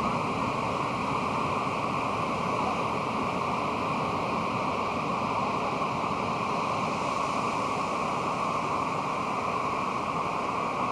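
Pacific Ocean surf washing steadily, a continuous noise of breaking waves with no single crash standing out.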